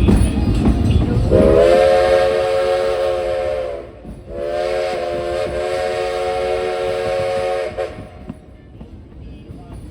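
Steam locomotive's chime whistle blowing two long blasts, each a steady chord of several notes, the second a little longer than the first. A low rumble of the moving train comes just before the first blast.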